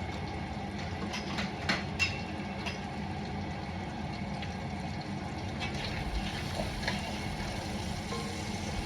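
Diced onion sizzling in hot oil in a Dutch oven, a steady frying hiss, with a few sharp clicks between about one and three seconds in.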